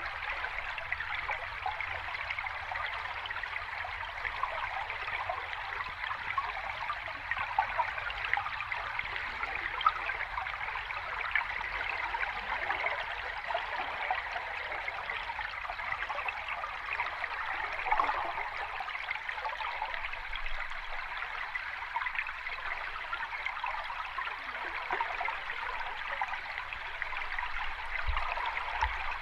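Sea water washing and fizzing steadily, a continuous rush with small crackles and no separate waves standing out.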